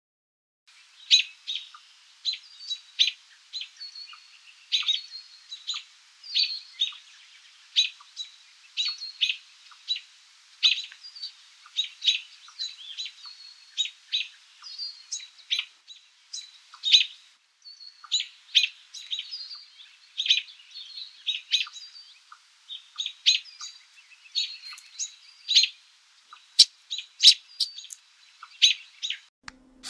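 Small birds chirping: a steady run of short, high chirps, several a second with brief pauses, starting just under a second in.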